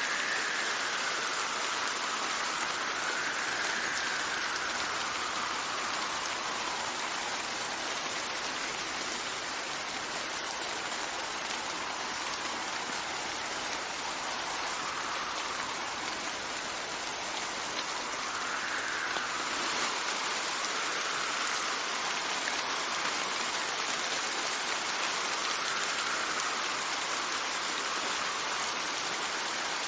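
Steady rain falling, with wind rising and falling in slow gusts every few seconds.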